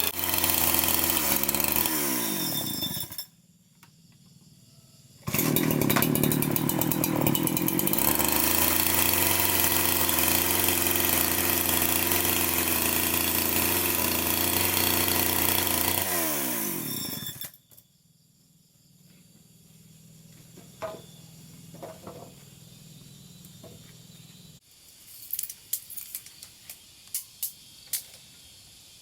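A power tool's motor running at full speed, then switched off and spinning down with a falling whine; it starts again abruptly a couple of seconds later, runs steadily for about twelve seconds and spins down again. Afterwards, scattered light knocks and taps.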